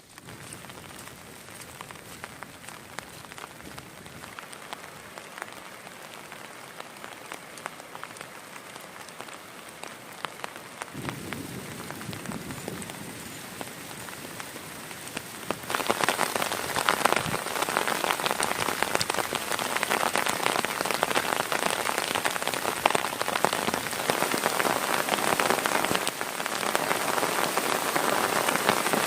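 Heavy rain falling, a dense hiss of countless drop impacts, growing louder in two sudden steps, about a third of the way in and again just past halfway.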